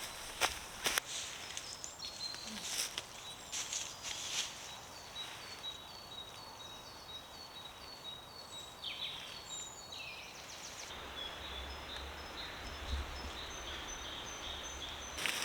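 A small songbird singing a run of short, evenly repeated high notes. Over the first few seconds there is rustling and a few sharp clicks of camping gear being handled.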